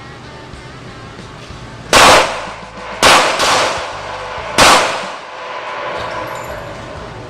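Three loud, sharp bangs like shots: the first about two seconds in, the next about a second later, the last a second and a half after that, each dying away quickly.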